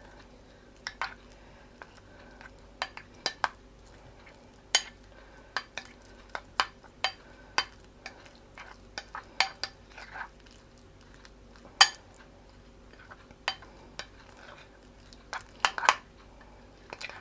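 A spoon or fork scraping and tapping against a bowl while a thick cream-cheese filling is mixed. The taps are sharp and irregular, a few a second, over a faint steady hum.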